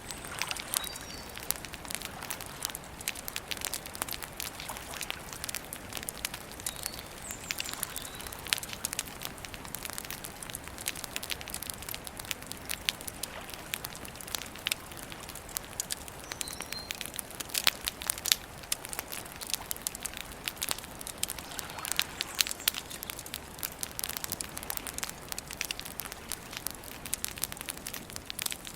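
Wood campfire crackling steadily, with a dense run of small pops and snaps and a few louder ones. Faint bird chirps come through now and then.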